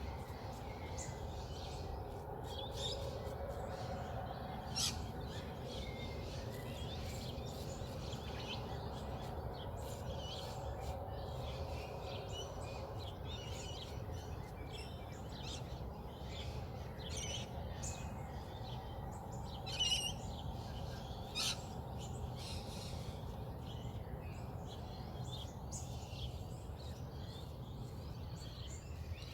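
Dawn bird song: many birds chirping and calling, short high calls scattered throughout with a few louder ones, over a steady low background rumble.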